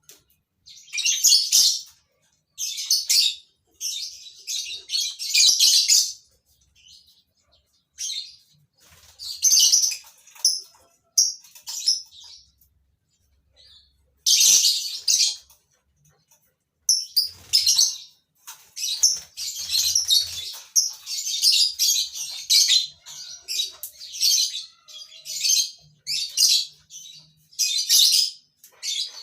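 Lovebirds calling: shrill, high-pitched chirps and screeches come in irregular bursts, each lasting a second or two, with short quiet gaps between them. The calls grow denser in the second half.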